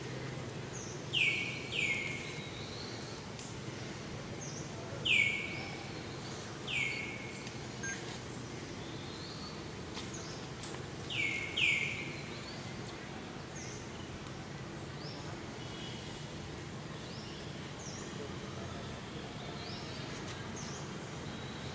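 Birds calling in the trees: three pairs of short notes that fall in pitch, about a second, five seconds and eleven seconds in, with fainter high chirps scattered throughout over a steady low outdoor hum.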